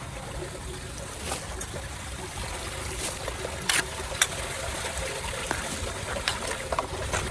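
Water trickling and running at a storm drain, with scattered sharp clicks and splashes. The two loudest clicks come between three and a half and four and a half seconds in.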